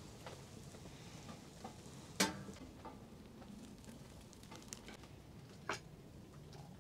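Faint steady sizzling and crackling from a camp stove, broken by two sharp snaps, one about two seconds in and another near six seconds.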